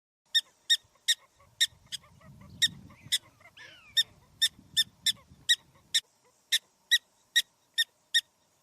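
An animal giving a long run of short, high, sharp calls, evenly repeated about two to three times a second.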